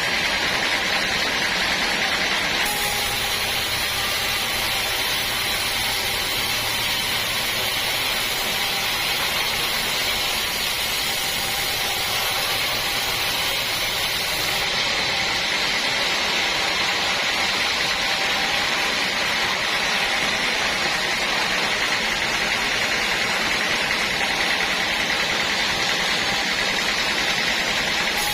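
Sawmill machinery running steadily, a loud even noise that changes character about three seconds in and again about halfway through.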